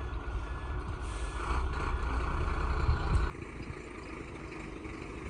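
Heavy truck engine running, with a hiss layered over it. Both drop off suddenly a little over three seconds in, leaving a quieter, steady engine sound.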